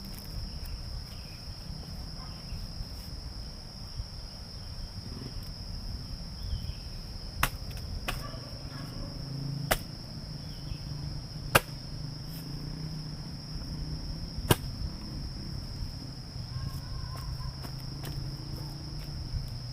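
Steady high-pitched insect chorus with a low rumble underneath. Four sharp knocks stand out in the middle, a couple of seconds apart.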